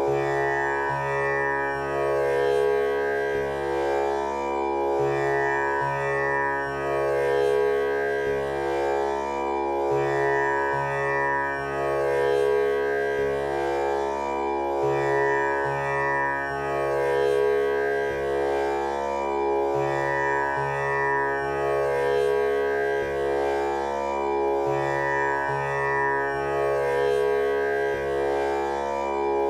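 Tanpura drone tuned to C# (male scale): its strings plucked one after another in a slow, unbroken cycle, each note ringing on into the next so the overtones shimmer continuously.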